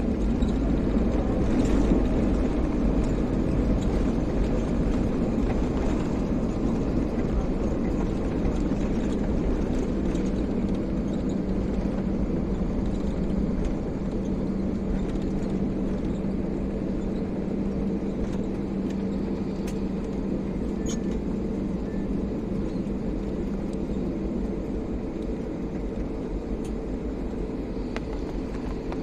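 Airliner cabin noise: a steady low rumble of the engines and airframe with a constant low hum, slowly easing in loudness.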